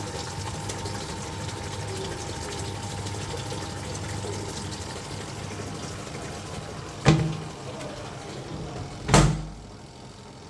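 Washing machine running with water flowing through it and a steady low hum. Two sharp knocks come about seven and nine seconds in, the second the loudest, and after it the water sound drops away.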